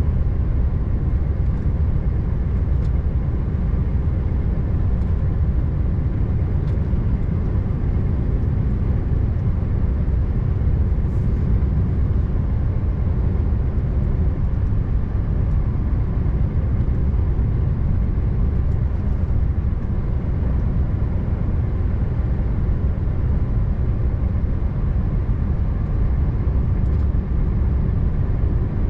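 Scania R590 truck's V8 diesel engine running steadily on the road, with tyre and road noise: an even low rumble that holds without change.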